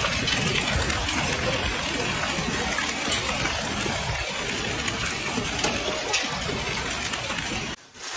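Heavy hail and rain pouring down: a steady, dense hiss with scattered sharp hits. It cuts off abruptly near the end.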